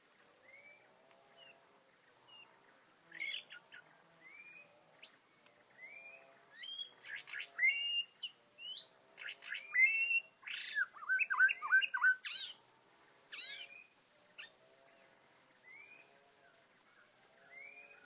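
White-rumped shama calling: short rising whistles repeated throughout, with a busy run of loud, sharp chirps and falling notes in the middle. A softer, lower call repeats underneath.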